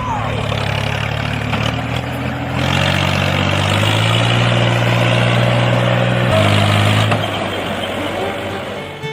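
An engine running with a steady, deep hum. It gets louder about two and a half seconds in and steps down in pitch a little after six seconds.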